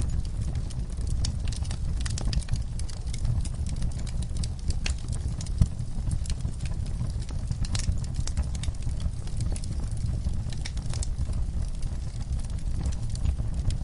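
Campfire crackling: irregular sharp snaps and pops over a steady low rumble of burning wood, with one louder pop a little over five seconds in.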